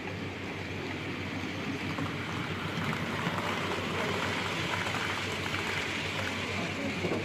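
Model train running on a layout: a steady rattling rumble of wheels on the track with a low motor hum, growing a little louder toward the middle.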